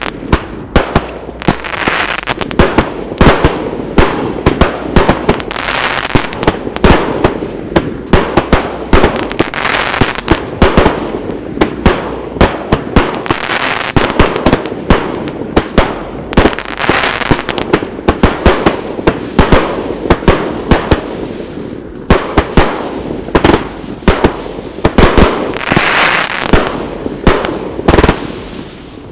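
Outbreak 51-shot XL aerial finale set, two cakes with 1.2-inch tubes, firing: a rapid, uneven string of sharp shots and shell breaks, often several a second, over swells of crackling.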